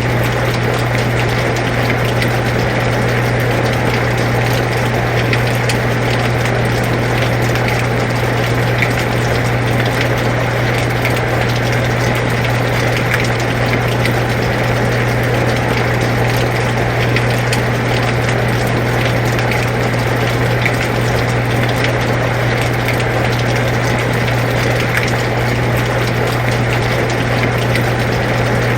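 An air conditioner running with a steady low hum under the continuous hiss of falling rain, with faint scattered drop ticks.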